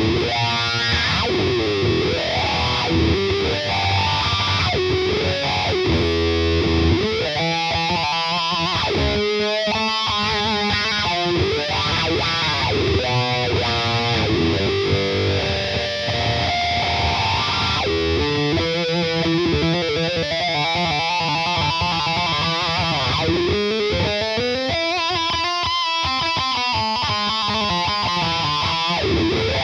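Electric guitar played through a Hotone Soul Press wah pedal. Notes and chords ring while the tone sweeps up and down, with repeated rising and falling wah sweeps.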